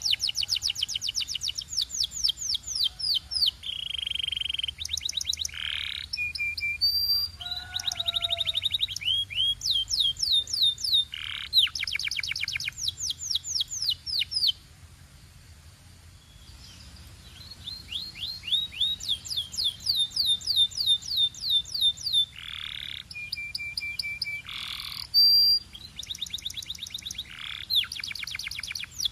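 Domestic canary singing: a string of fast trills, each a rapid run of repeated high notes, broken by a few held notes. There is a pause of about two seconds halfway through.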